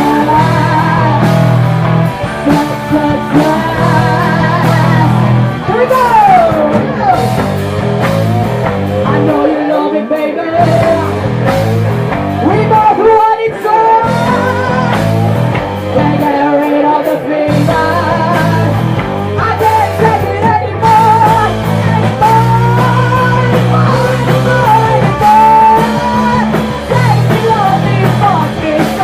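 Live punk rock band playing loud, with singing. The bass and low end drop out briefly three times near the middle.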